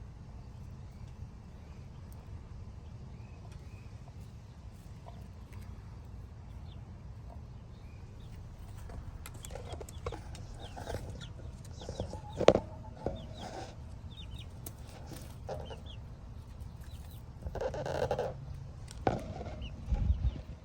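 Backyard hens clucking, starting about nine seconds in and growing busier near the end, with one sharp click about halfway through. A low steady rumble runs underneath.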